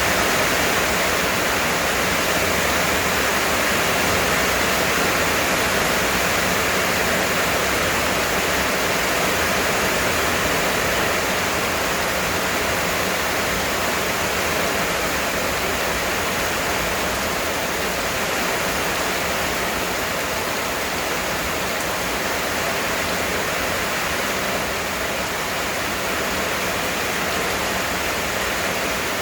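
Heavy rain pouring down, a steady dense hiss that keeps an even level throughout.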